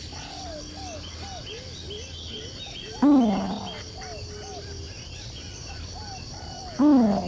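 Wild animal calls: two loud, low, harsh calls that fall in pitch, each about half a second long and about four seconds apart, over a steady scatter of small quick chirps.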